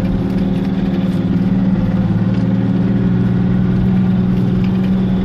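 Off-road 4x4's engine running steadily while the vehicle drives, heard from inside the cabin.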